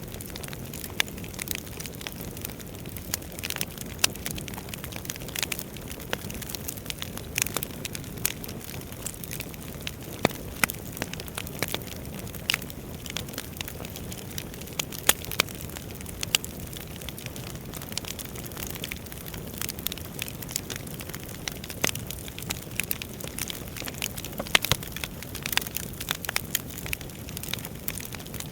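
Wood fire burning in a fireplace: a steady low rush of flame with irregular sharp crackles and pops from the logs throughout.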